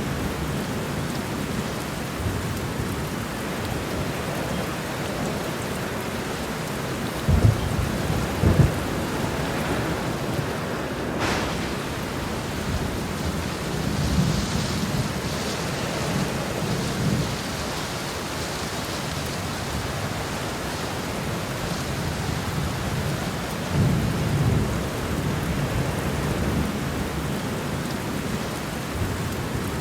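Heavy rain falling steadily in a thunderstorm, with thunder over it: two loud, sharp claps about a second apart roughly a quarter of the way in, then lower rolling rumbles around the middle and again later.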